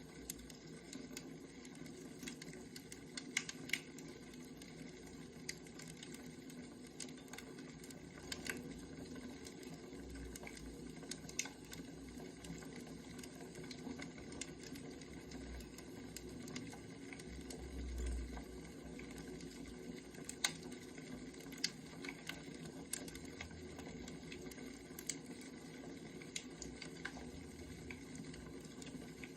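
Firewood burning: a steady hiss with scattered sharp crackles and pops. A low rumble swells for a few seconds near the middle.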